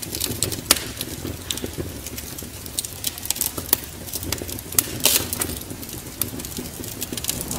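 Wood fire crackling in a fireplace: irregular sharp pops and snaps over a steady low rumble. The loudest pops come a little under a second in and about five seconds in.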